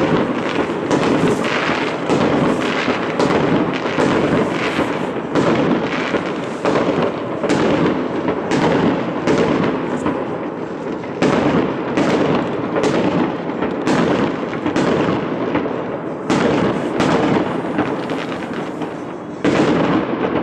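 Aerial fireworks bursting in a continuous barrage: sudden bangs about two a second, overlapping one another.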